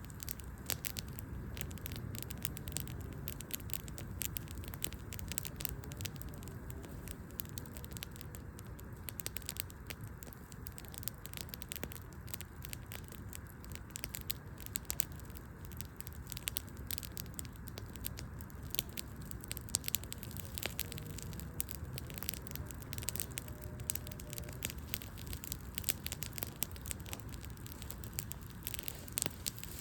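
Wood fire crackling: frequent sharp pops and snaps of burning logs over a steady low noise of the flames.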